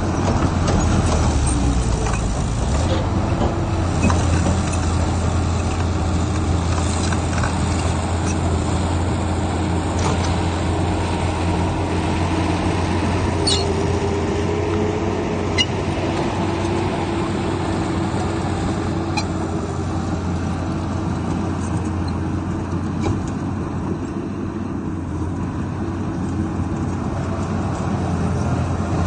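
Heavy diesel engine of a Komatsu bulldozer running steadily, with a few sharp metallic clanks around the middle.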